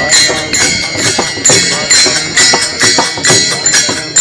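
Group of pilgrims singing a devotional bhajan in chorus to the steady clash of small hand cymbals (taal), about two strikes a second.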